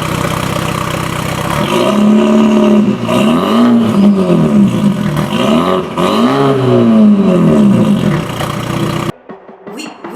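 BMW 330e G20's turbocharged 2.0-litre four-cylinder running through a catless downpipe and M Performance muffler kit: it idles steadily, then is revved up and let fall back several times. The engine sound cuts off about a second before the end and music starts.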